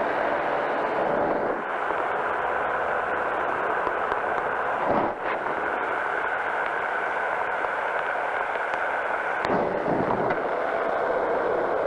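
Powered parachute's engine and propeller running steadily in flight, with a brief change in the sound about five seconds in and again near ten seconds.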